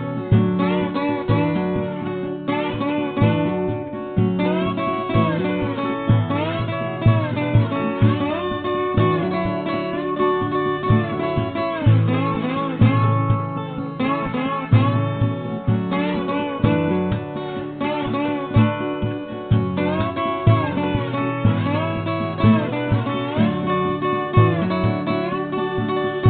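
Instrumental break of a song: acoustic guitar played in a steady rhythm, with a lead melody line whose notes bend and slide in pitch.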